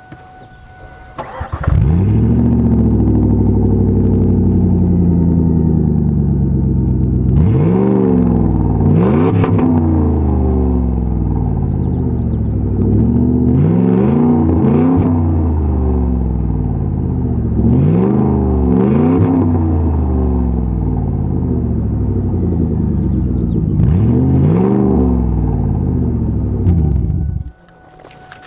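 Loud Ford Taurus SHO 3.4-litre V8 running with its mufflers cut off: it starts, idles, and is blipped in quick pairs of revs four times, then is shut off near the end.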